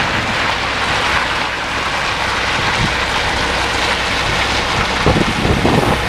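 Steady rushing of wind on the microphone, with a low rumble that grows stronger about five seconds in.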